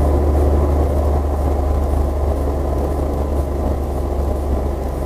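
Steady low drone of a car's running engine and road noise.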